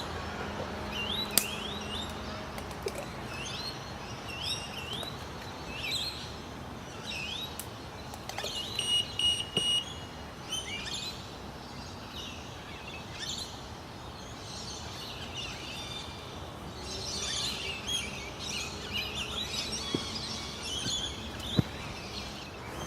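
Birds singing: a run of short, rising chirps repeated every second or so, then busier chattering from several birds in the second half. A steady high whistle lasts about a second near the middle.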